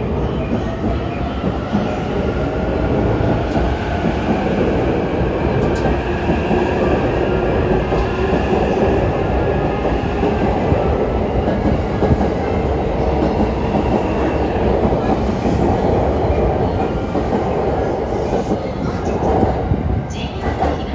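Electric train running along the station platform: a steady rumble of wheels and running gear, with a faint gliding whine from the traction motors.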